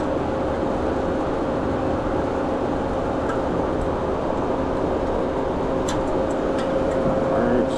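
Steady machinery hum and whir with a constant pitched tone, from running commercial kitchen refrigeration equipment. A few light clicks come near the end.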